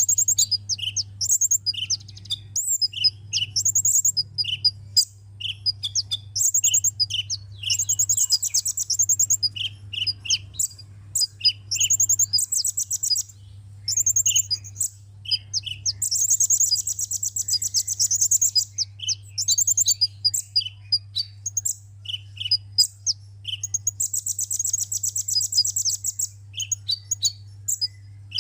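Sunbird song: a fast, continuous run of short, high, sharp chirps, broken twice by long rapid trills.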